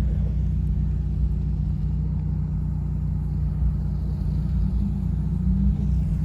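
Car engine running at a steady low drone, heard from inside the car, with no revving.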